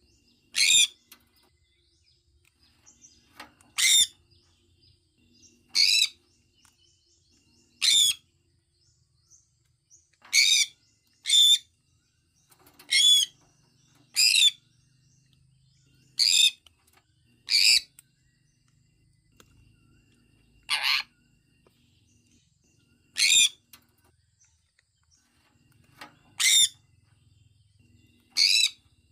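Sun conure giving short, high-pitched chirping calls, one every one to three seconds, about fourteen in all.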